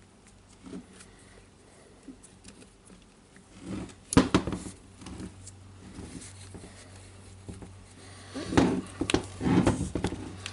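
Plastic handle parts and the cable of a rotary hammer being handled and fitted together during reassembly: light clicks and rattles, a sharp knock about four seconds in, and a cluster of louder knocks near the end.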